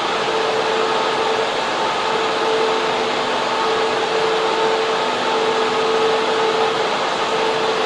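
Server room cooling fans and air handling running steadily: a loud, even rush of air with a faint hum underneath that swells and fades every second or so.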